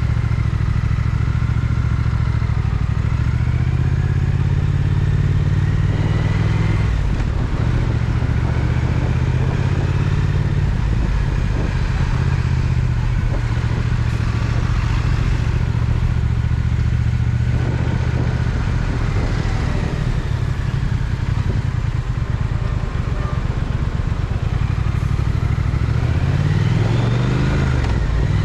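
Triumph Speed Twin motorcycle's parallel-twin engine running under way, its pitch climbing and falling several times with sharp drops about a quarter of the way in, past the middle and near the end.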